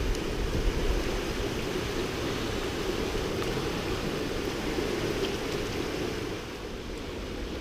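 Flood-swollen river rushing steadily, with low wind rumble on the microphone in the first second; the rush drops a little in level near the end.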